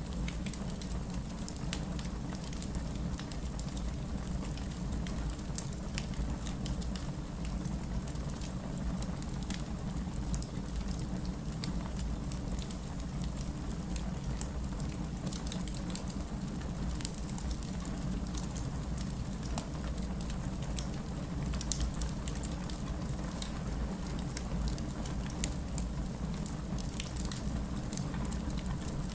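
Wood fire crackling, with constant small snaps and pops over a low, steady rumble of the burning logs and a couple of sharper pops in the second half.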